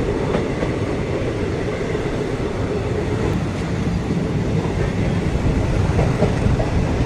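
Passenger coaches of a departing express train rolling past, a steady rumble and rattle of wheels on rail.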